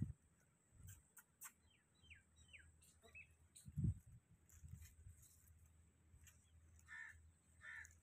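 Faint bird calls: a quick run of short falling chirps, then two harsher calls near the end, with a few low thumps underneath.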